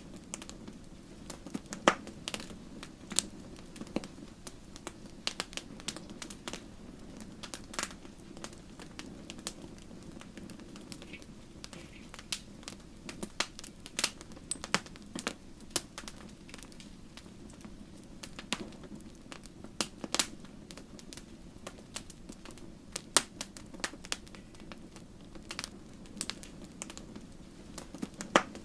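Wood fire burning in a fireplace: irregular sharp crackles and pops from the burning logs over a steady low background.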